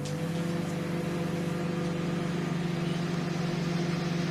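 Microwave oven starting up and running, a steady low hum of a few layered tones.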